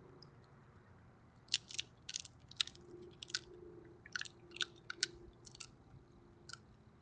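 Raccoon crunching peanuts in the shell: about a dozen sharp, irregular crunches starting about a second and a half in.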